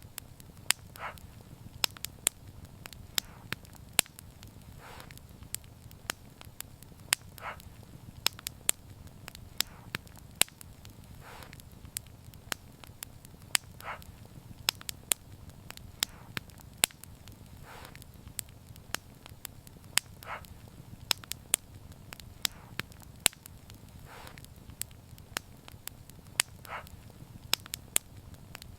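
Wood fire crackling: frequent sharp pops and snaps over a low, steady rumble of the burning fire, with a short soft hiss every few seconds.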